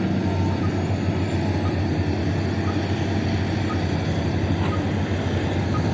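Heavy mining dump truck's diesel engine running with a steady, loud, low rumble, with a faint short beep about once a second.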